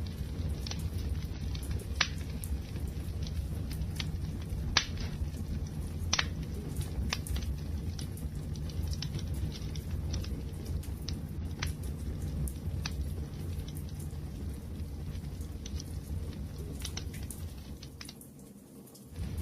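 Wood fire crackling: a steady low rumble with sharp pops and snaps scattered through it, a few louder pops around two, five and six seconds in. It dies down briefly near the end before coming back at full strength.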